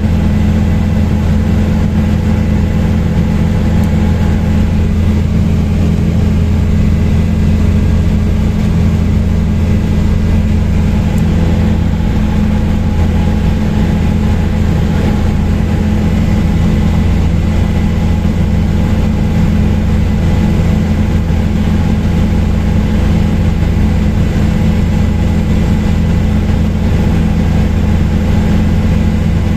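Helicopter engine and rotor noise heard from inside the cabin in steady flight: a constant low drone with a faint steady high tone above it.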